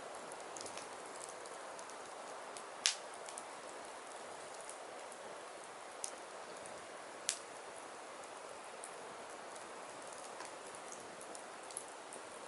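Firewood burning: a steady hiss with scattered small crackles and a few sharp pops, the loudest about three seconds in.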